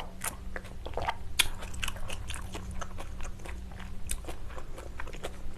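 Close-miked eating: a person chewing food with the mouth near the microphone, with many irregular wet clicks and smacks.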